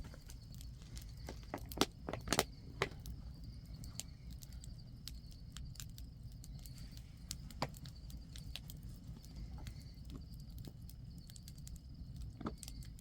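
Scattered sharp clicks and crackles over a low steady rumble, the loudest few coming close together about two seconds in. A faint steady high trill, like night insects, runs underneath.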